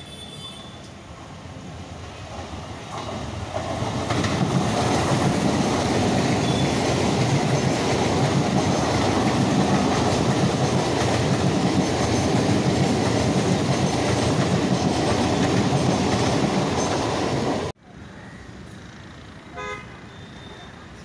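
Electric multiple-unit suburban train passing close by, its rumble and wheel noise building from about four seconds in and staying loud. Near the end it cuts off abruptly, leaving much quieter rail noise.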